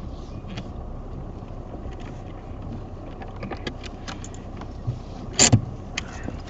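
Low steady rumble of a car, with scattered light clicks in the second half and one sharp, loud clack about five and a half seconds in.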